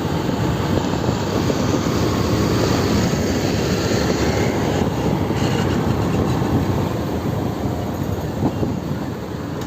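Steady rushing noise of a moving motorcycle: engine, road and wind buffeting the microphone.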